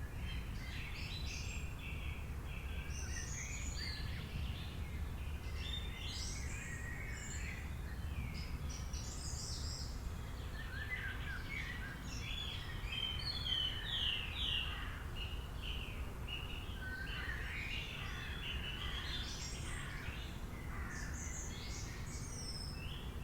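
Several birds chirping and trilling without a break, short overlapping calls from different birds, over a steady low rumble.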